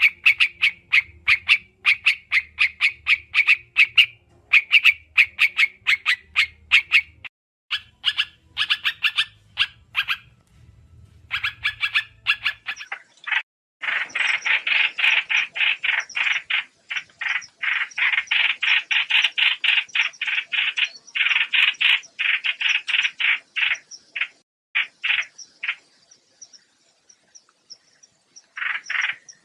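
Trao trảo songbird calling: rapid runs of sharp, repeated chattering notes, in bursts of a few seconds with short breaks, the densest run in the middle. It is a recorded lure call of the kind used to draw birds to a trap.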